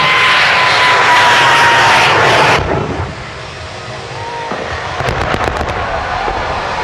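Jet engine of a jet-powered show vehicle on full power: a loud roar with a steady turbine whine that falls slowly in pitch, cutting off abruptly a little under three seconds in. A brief burst of sharp crackling follows about five seconds in.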